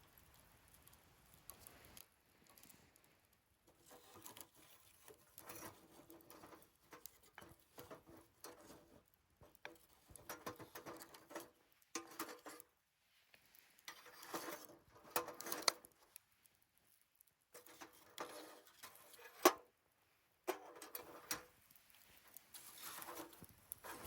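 Wood fire burning in a fire stand, crackling and popping irregularly, with one sharp loud pop a few seconds before the end.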